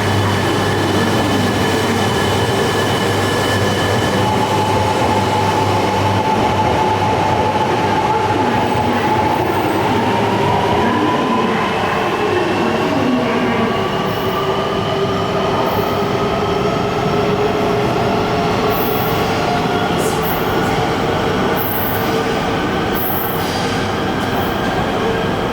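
Coupled Shinkansen train (E5 series with an E3 series Tsubasa) running out of the station, with a steady rumble of wheels on rail and a motor whine that slowly rises in pitch as the train gathers speed.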